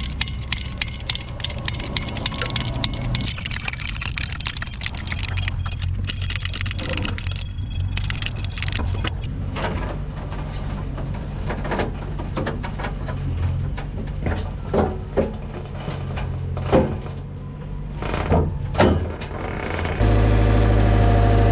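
A vehicle engine running steadily, with rattling and clicking over it. About twenty seconds in, the sound jumps suddenly to a louder, steadier engine.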